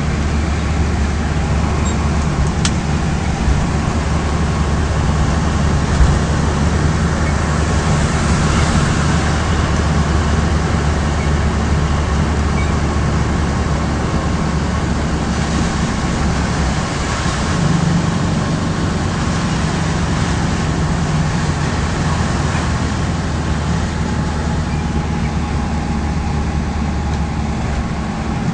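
Air-cooled flat-four engine of a VW Beetle 1600 running at a steady drone while driving, heard from inside the cabin, over a steady hiss of tyres on the rain-wet road. A small click and a knock stand out briefly in the first few seconds.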